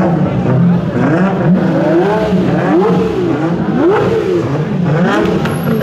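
A car engine being revved in a series of throttle blips, its pitch rising and falling about five times over a steady idle.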